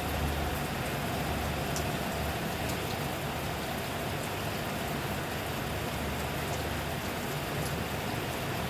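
Steady rain falling: an even hiss with scattered faint drop ticks, over a low rumble that comes and goes.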